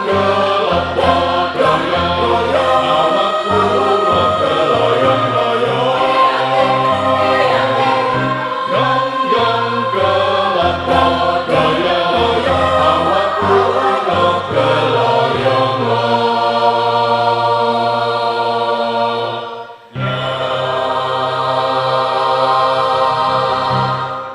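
Choir singing in harmony, settling into long held chords, with a brief break near the end before a final held chord that cuts off.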